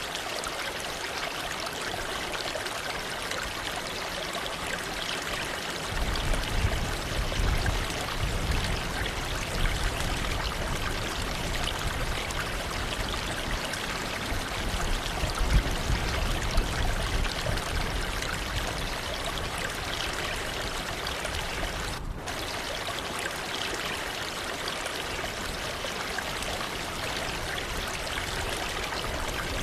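Waterfall rushing steadily, a constant wash of falling water, with a deeper low rumble joining about six seconds in and fading back after the middle. A momentary dip in the sound comes about three-quarters of the way through.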